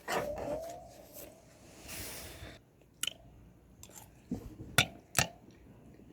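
A person chewing food, with mouth sounds. In the second half there are several short, sharp clicks or crunches.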